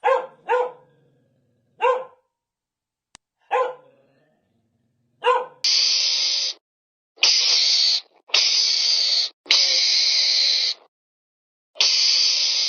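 A dog barking: five short single barks, spaced unevenly over about five seconds. Then a different sound takes over: five long, harsh, hiss-like blasts of about a second each, with short gaps between them.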